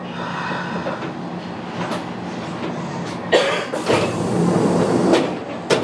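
Inside a Kintetsu local train car as it slows for a station stop: steady running noise with wheel clatter, then a sudden louder burst of noise a little past halfway that lasts about two seconds, and a sharp knock near the end.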